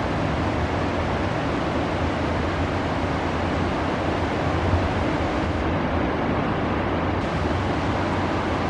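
Steady rushing of flowing river water, an even hiss and rumble that does not change.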